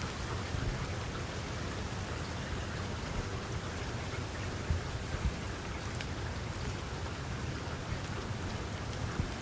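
Steady rain falling, with the patter of individual drops hitting a surface and a few soft low thumps.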